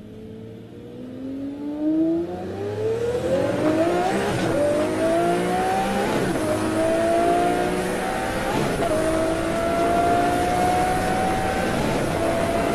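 Twin-turbo Lamborghini Murcielago LP670-4 SV's V12 accelerating hard. Its pitch climbs through the revs and drops suddenly at each of three upshifts, then climbs again.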